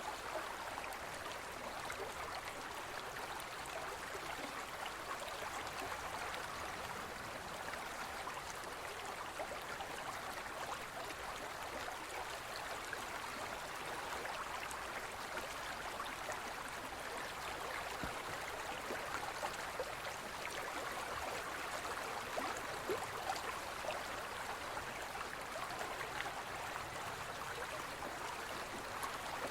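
A forest stream flowing steadily over rocks, an even rushing splash with small gurgles and drips through it.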